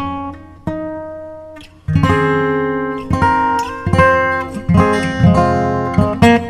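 Background music: acoustic guitar picking and strumming chords, each note ringing and fading, with a sparser, quieter passage early on before fuller chords come back in about two seconds in.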